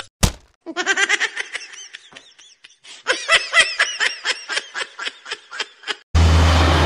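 Laughter: a long string of quick, rhythmic 'ha-ha' pulses, broken off about six seconds in by a steady low hum and outdoor background noise.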